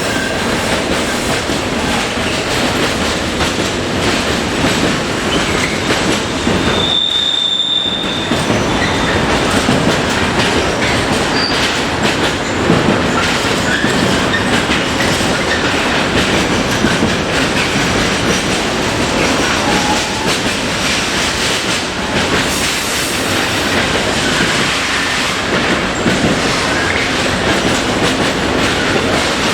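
Train running along the track: continuous wheel-on-rail rumble and clatter, with a brief high wheel squeal about seven seconds in.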